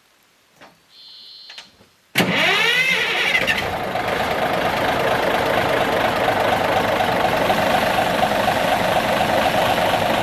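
A 1974 Kenworth log truck's diesel engine starting: a click and a short high beep, then the engine catches abruptly about two seconds in, revs up for a second or so and settles into a steady loud run as it warms up.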